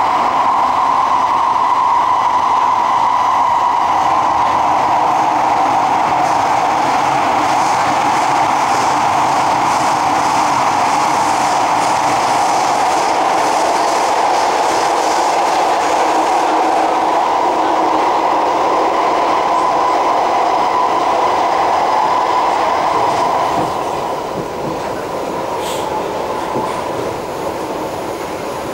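Kawasaki-CSR Sifang C151A electric multiple unit running at speed, heard from inside the passenger car: a steady, loud rumble and rush of wheels on rail. The noise eases and drops somewhat near the end.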